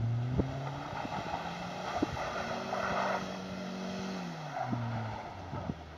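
Daihatsu Terios engine revving while the small SUV slides and spins its wheels on packed snow: the engine note climbs over a couple of seconds, holds, then drops away about four seconds in. A few sharp clicks are heard along the way.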